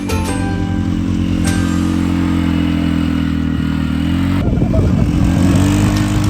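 Small off-road vehicle engine running steadily, then revving unevenly for the last couple of seconds.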